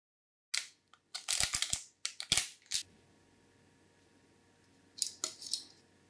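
Packaging being handled and opened by hand: a quick run of sharp rustles and clicks for a couple of seconds, then, after a pause, two more brief rustles near the end.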